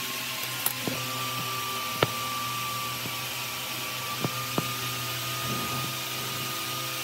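A small motor running steadily with a slightly wavering whine, with a few sharp clicks or knocks now and then.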